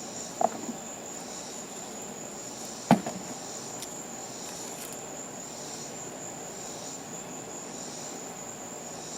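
Crickets and other insects calling: a steady high trill, with a softer call pulsing about once a second. Two sharp knocks cut through, about half a second and about three seconds in.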